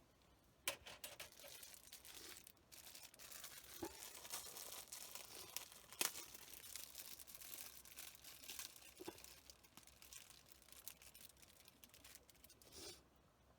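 Soft crinkling and rustling, like paper or a wrapper being handled, with a sharp click about a second in and another midway.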